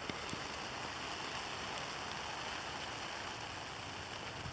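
Steady hiss of mixed graupel, sleet and rain falling, with a couple of faint ticks of pellets landing at the very start.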